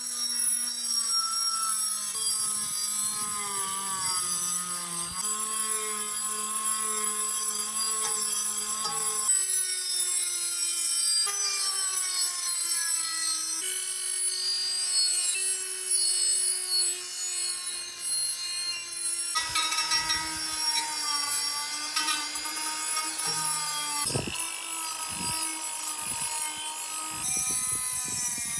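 Electric power tool motor running steadily, its pitch shifting up and down in steps several times through the run, with a hiss of the tool working the metal.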